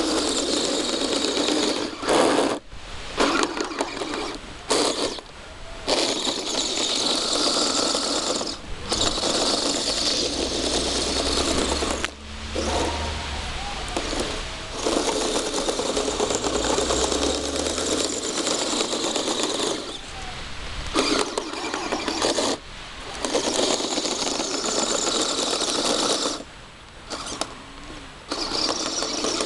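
Kyosho Blizzard radio-controlled snowcat's electric motor and gear-driven tracks running in spurts of a few seconds, cutting out briefly and starting again several times as the throttle is worked.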